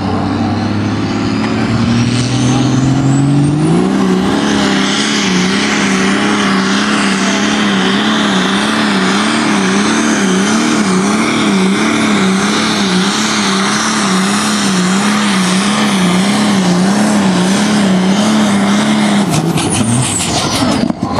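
Pulling vehicle's engine at a truck and tractor pull revving up over the first few seconds with a rising whistle, then held at full throttle for about fifteen seconds while its pitch wavers up and down during the pull. It drops off about two seconds before the end, with a few sharp cracks.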